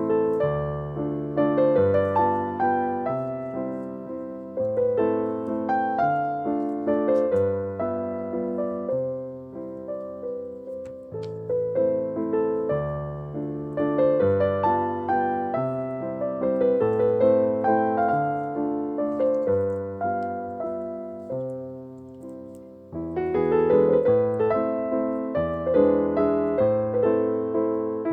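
Background piano music: a gentle melody over low held bass notes, each note struck and fading.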